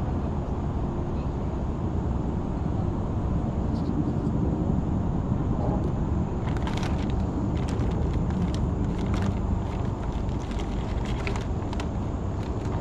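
Steady low rumble, with scattered sharp clicks and rattles from about halfway through.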